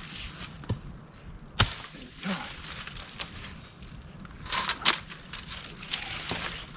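Splitting axe striking black cherry wood with one sharp knock about a second and a half in, then smaller knocks and a pair of sharp crackling sounds about four and a half seconds in as the stringy wood is worked apart.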